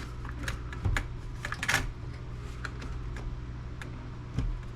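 Irregular clicks and clacks of a desktop computer case being handled and pried at while hunting for how it comes apart, with a cluster of sharper clacks a little under two seconds in and a dull knock near the end, over a steady low hum.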